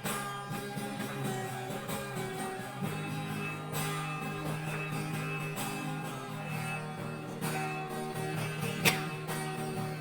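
Guitar strumming chords in an instrumental passage of a praise song, with no voices singing.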